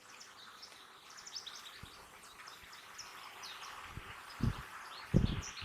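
Birds chirping around an open beehive, with the steady buzzing of honey bees underneath. Near the end come three dull low thumps, the last two the loudest.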